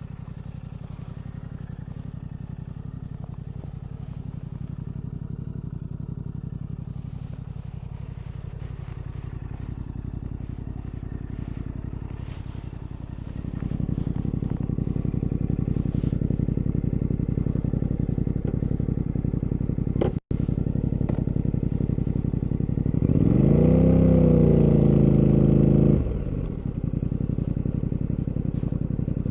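Fantic Caballero 700 Scrambler's parallel-twin engine running at low revs, growing louder about halfway through as the bike pulls harder. Near the end it revs up, its pitch rising and falling back over about three seconds, then settles again.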